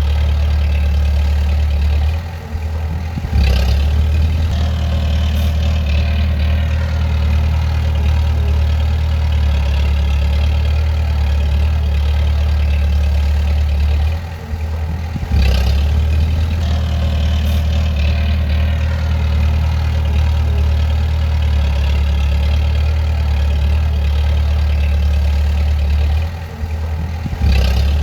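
Bulldozer's heavy diesel engine running with a steady low drone. It dips briefly three times, about every twelve seconds, and comes back each time with a short clank.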